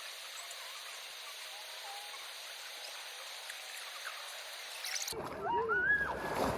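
River water rushing steadily. About five seconds in, the sound cuts abruptly to a louder, closer scene with a person's voice calling out over the water.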